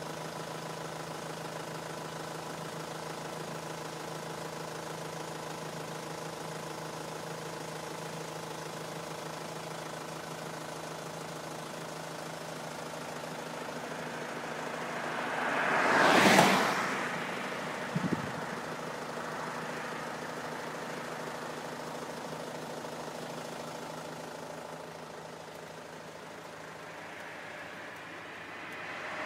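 A motor vehicle engine idling steadily. About halfway through, another vehicle passes close by, its noise swelling quickly and falling away, followed by a short click.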